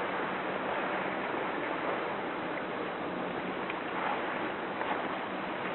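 Steady rush of water and wind around a motorboat at sea, with a faint low engine hum under it.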